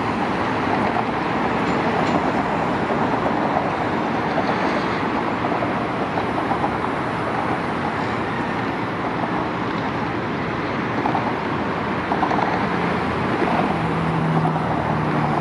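Railway carriages rolling past on the track: a steady rumble of wheels on rails. A low steady hum joins near the end.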